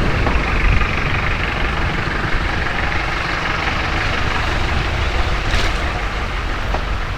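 Steady rush of wind buffeting an action camera's microphone, with tyre and road noise from a bicycle being ridden. A brief click comes about five and a half seconds in.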